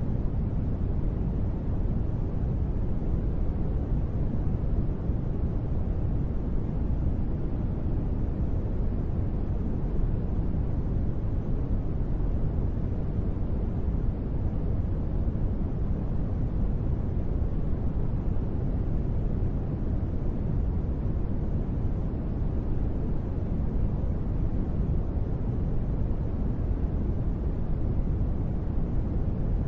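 Steady rain white-noise ambience, deep and even, with its weight in the low end and no separate drops or other sounds standing out.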